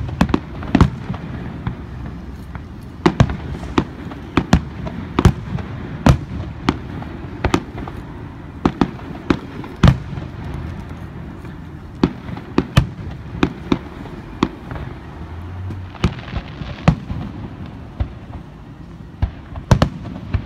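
Aerial fireworks shells launching and bursting overhead: a run of sharp bangs at uneven spacing, roughly one or two a second, over a steady low background.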